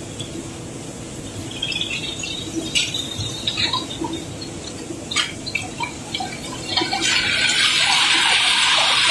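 Cobblestones being unloaded from a barge: a few scattered clacks of stone on stone, then a steady rushing clatter of rocks flowing, which starts about seven seconds in and gets louder.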